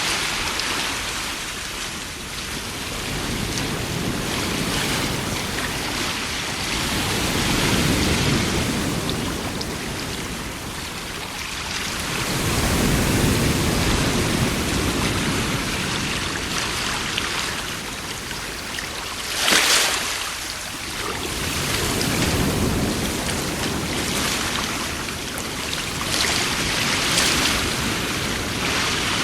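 Rain and thunderstorm ambience: a steady hiss of rain with low rolls of thunder swelling and fading several times, and one sharper crack about two-thirds of the way through.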